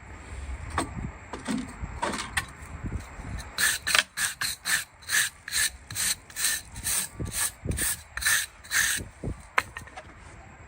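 Hand tool scraping hoof horn in a quick, regular run of strokes, about two to three a second, after a few scattered light clicks.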